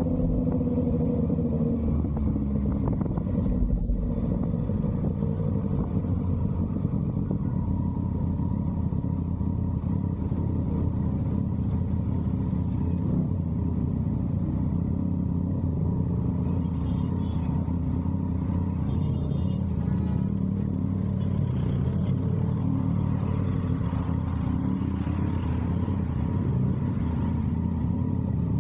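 Yamaha MT-09's inline three-cylinder engine through an SC Project aftermarket exhaust, running under way. The engine note drops in pitch over the first couple of seconds, then holds a steady low rumble.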